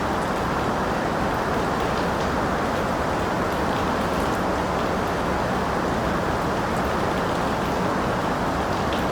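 Steady rain, an even wash of noise with a few faint drop ticks scattered through it.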